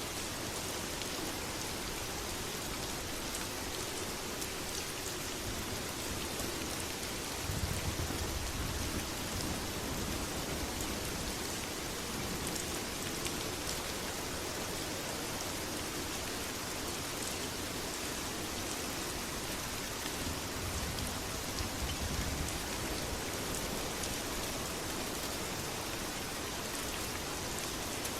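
Steady heavy rain falling, an even hiss of drops. Two brief low rumbles swell up, about eight seconds in and again about twenty-one seconds in.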